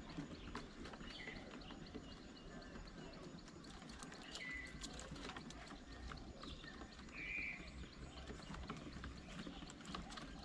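Faint outdoor ambience with scattered light taps and clicks and a few short bird calls.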